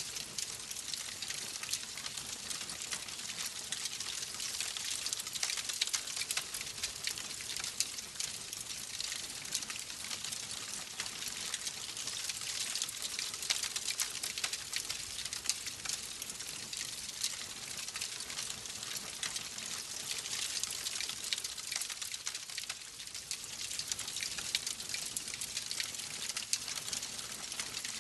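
Wood fire crackling: many small pops and snaps over a steady hiss.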